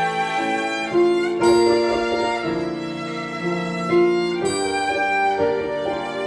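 Violin ensemble playing a slow melody in harmony with piano accompaniment; notes are held about a second each.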